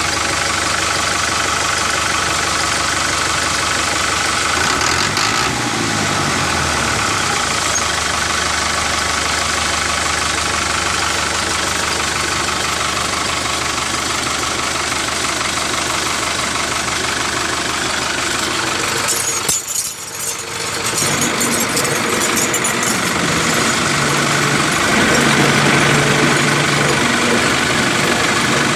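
Small motor of a DIY mini tractor running steadily, its pitch sliding briefly about five seconds in and dropping out for a moment about twenty seconds in.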